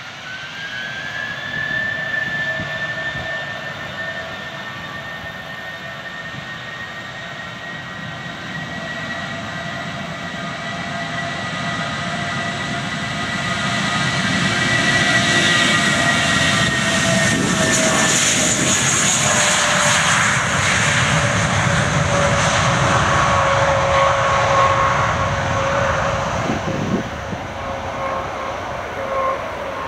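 Airbus A320 jet engines at takeoff power: a whine that rises in pitch as the engines spool up, then the jet noise builds to its loudest about halfway through as the aircraft passes, its whine dropping slightly in pitch, and eases a little near the end.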